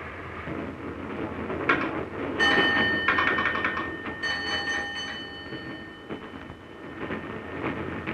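Steam express train running at speed, a steady rumble from the train. About two and a half seconds in, the locomotive's whistle sounds, and again about four seconds in.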